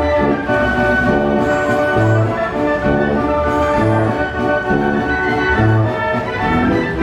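A 1918 Wurlitzer style 157 carousel band organ playing a tune: chords on brass-like pipes over a bass that repeats about every couple of seconds.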